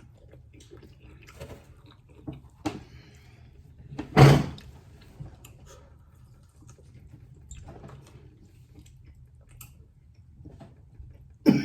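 Close-up eating sounds of people eating hot wings: faint scattered clicks, smacks and handling noises, with one loud, short noise about four seconds in.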